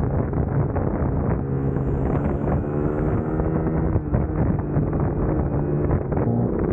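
Suzuki GSX-S150's single-cylinder engine running under way, with wind buffeting the microphone. The engine pitch shifts up and down in the second half.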